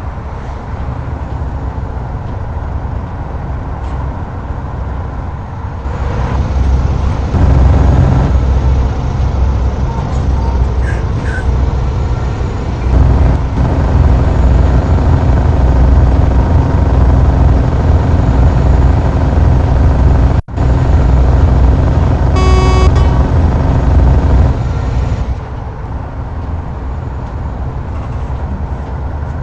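Road traffic: engine and tyre noise from motor vehicles on the move, louder through much of the middle. A vehicle horn sounds once, briefly, a little over 22 seconds in.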